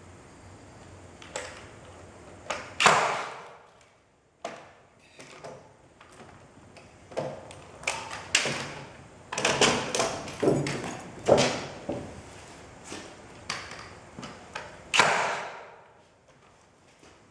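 A dozen or so irregular knocks and thuds, some with a short ringing decay; the loudest come about three seconds in and about fifteen seconds in.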